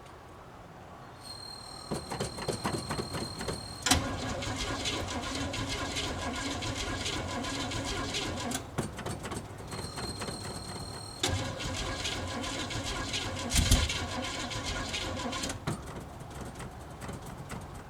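A 1967 Chevelle's starter cranking the cold engine in two long runs of several seconds each, without it catching. A high steady whine comes in just before each run. It is a cold start after the car has sat about a month, on an engine the owner calls cold-blooded.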